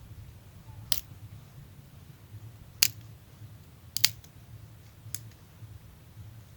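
Five short, sharp clicks at uneven intervals, two of them close together about four seconds in, over a low steady background hum.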